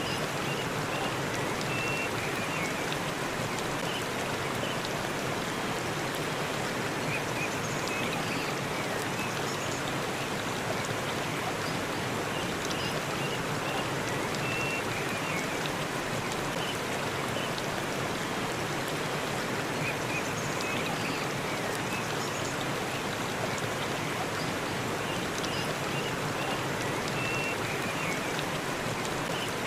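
Waterfall: a steady, unbroken rush of falling water, with faint short high chirps now and then.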